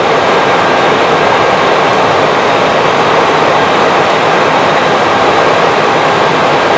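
Steady rushing noise on the flight deck of an Airbus A320, an even wash of airflow and air-conditioning hiss that does not change.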